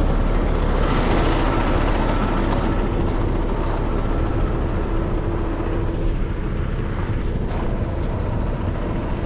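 Wind buffeting the microphone over a heavy-duty rotator tow truck's diesel engine idling, with scattered light crunches of footsteps on loose gravel.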